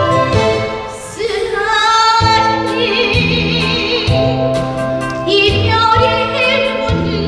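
A woman singing a Korean trot song over a karaoke-style backing track with a steady beat. She holds notes with vibrato in phrases, the first starting about a second in.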